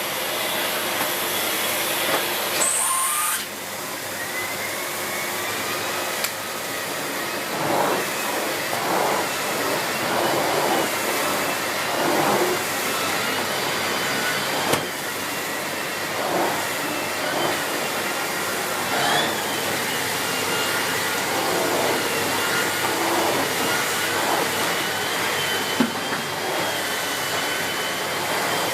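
A Miele C2 Compact (S6 Cat and Dog) cylinder vacuum cleaner's 2000 W motor running continuously during vacuuming, with a thin whine that wavers in pitch. The noise swells and falls over and over, with a short dip about three seconds in.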